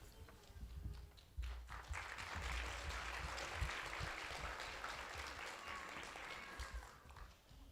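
Audience applause in a church, starting about a second and a half in and dying away near the end, with a few low thumps underneath.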